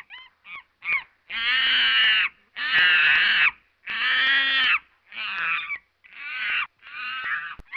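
A monkey calling: a run of harsh, pitched screeching calls, three short ones first, then three long loud ones of about a second each, then three shorter ones near the end.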